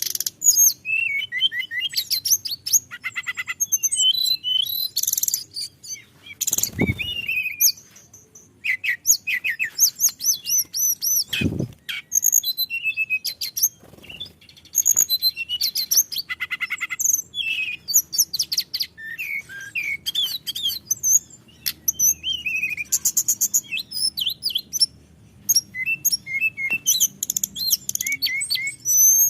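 Hill blue flycatcher (tledekan gunung) singing a long unbroken run of rapid, varied whistled notes, trills and slurred glides. Two short dull thumps cut in at about 7 and 11 seconds.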